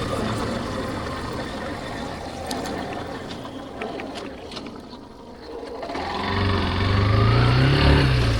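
Yamaha Factor 150 single-cylinder motorcycle engine, heard from the bike: it eases off and goes quieter for a few seconds while coasting, then pulls hard again from about six seconds in. Its note climbs and then drops near the end, like a gear change.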